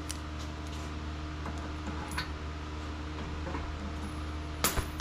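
Steady shop hum with a few faint clicks of hand tools and hardware, and one sharp metallic click near the end.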